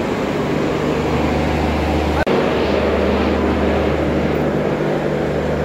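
Steady low machine drone of a standing passenger train at a station platform, with light platform bustle. The sound briefly cuts out about two seconds in.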